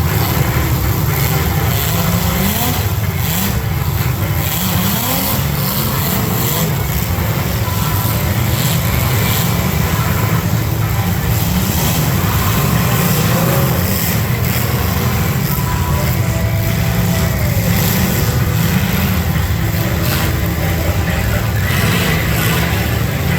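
Several demolition derby cars' engines running loud together, revving up and down in rising and falling sweeps.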